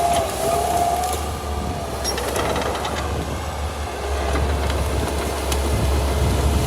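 Crawler bulldozer working through brush: the diesel engine runs with a deep rumble while the steel tracks clank and give a wavering squeal in the first couple of seconds. Scattered sharp cracks of snapping branches sound through it.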